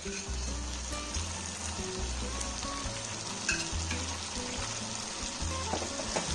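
Chicken drumsticks and onion-tomato masala sizzling as they fry in a pan, with a few light clicks about halfway through and near the end. Background music with a low bass line runs underneath.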